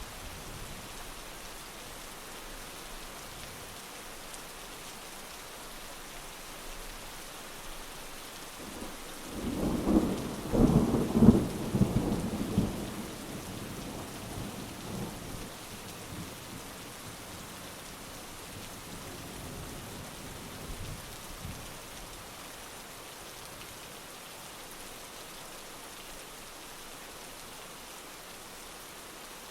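Steady heavy rain on surfaces with a roll of thunder rumbling up about nine seconds in, loudest for a few seconds, then fading away under the rain.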